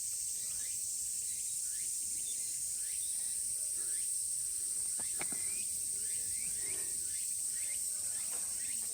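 A summer cicada chorus: a steady, high, continuous drone, with short falling chirps scattered through it. There is a sharp click about five seconds in.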